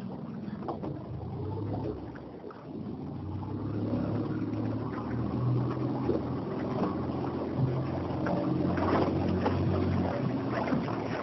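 Small motorboat engine running steadily at low speed, its hum growing louder about three seconds in, with water splashing around the hull.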